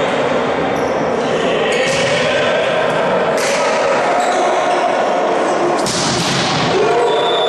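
A ball striking the floor of a sports hall a few times, sharp thuds over the steady echoing din of players and spectators.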